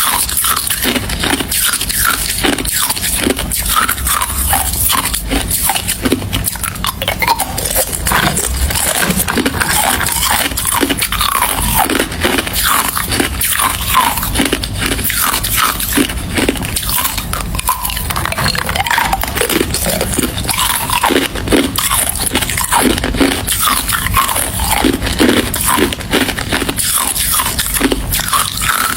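Ice being chewed close to the microphone: a dense, unbroken run of sharp, crunchy bites and grinding.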